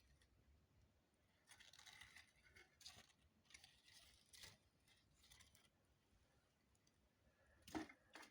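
Faint, irregular crackles and rustles from a solid-fuel boiler being lit, with one sharper click near the end.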